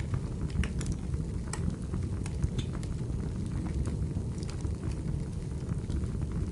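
Wood fire burning in a fireplace: a steady low roar of flames with scattered sharp crackles and pops from the burning logs.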